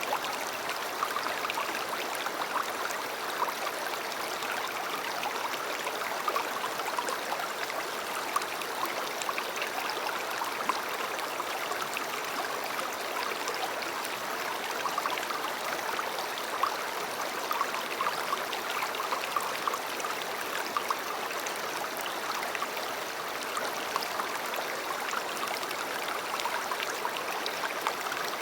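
River water flowing: a steady, even rush with small irregular splashes.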